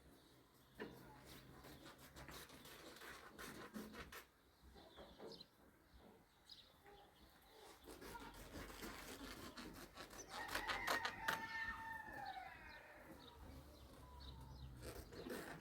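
Rooster crowing once, about ten seconds in, over scattered light clicks and knocks.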